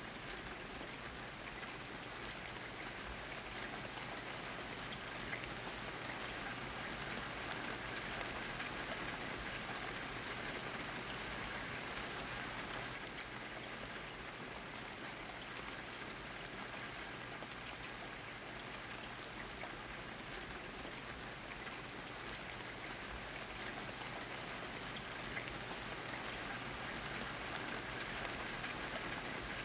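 Steady rain falling and pattering on surfaces, a dense even hiss of drops.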